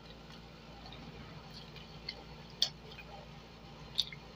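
Faint eating sounds: a few sharp, irregularly spaced mouth clicks and smacks while chewing, the loudest about two and a half seconds in and another near the end.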